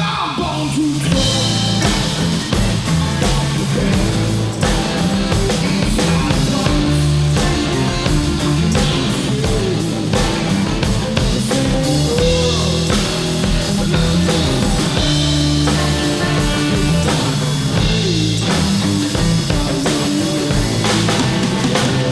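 Live blues-rock band playing an instrumental passage: electric guitar with bass and drum kit keeping a steady beat.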